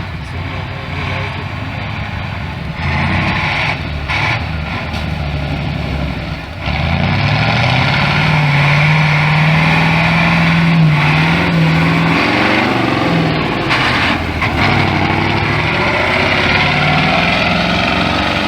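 Truck engine under load, rising in pitch about six seconds in and then held high and louder, with small dips.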